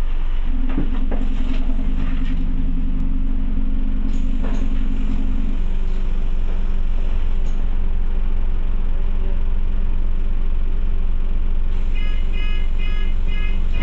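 Scania OmniCity bus heard from inside while it runs: a steady low engine and road rumble, with a drone in the first half that drops away about five seconds in. Near the end comes a run of short, evenly spaced high beeps.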